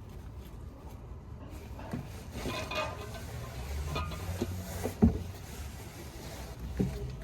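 Clatter and a few sharp knocks of tools and parts being handled, the loudest knock about five seconds in, over a steady low hum.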